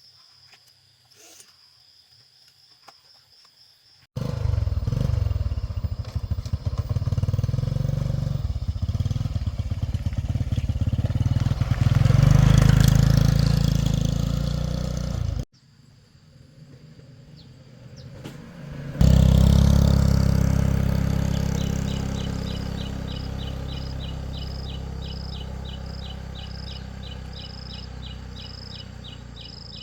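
A motor-driven machine running loudly in two stretches, each starting and stopping abruptly; the second fades gradually. Crickets chirp rapidly behind it.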